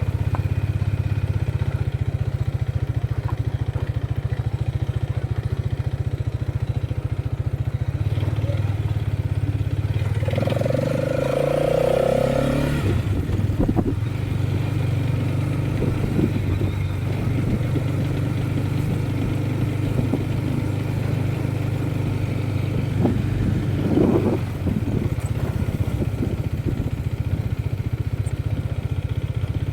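Motorcycle engine running steadily while riding. A horn sounds once for about two seconds, roughly a third of the way in.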